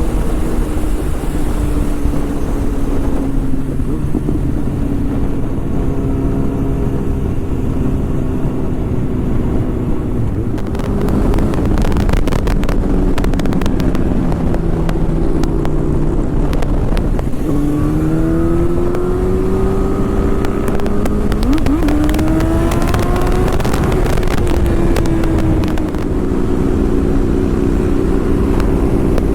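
Motorcycle engine running under way, its note rising and falling several times in the second half with throttle and gear changes, over heavy wind buffeting on the microphone.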